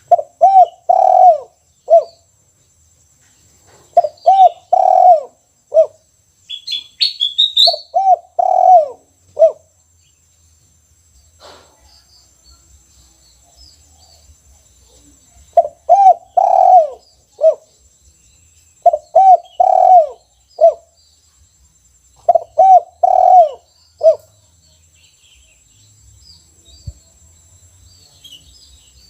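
Caged spotted dove (tekukur) cooing in the 'kuk 1' style: six phrases of a few coos, each ending in one short separate 'kuk' note, with a pause of about five seconds midway. A brief, higher chirping sounds about seven seconds in.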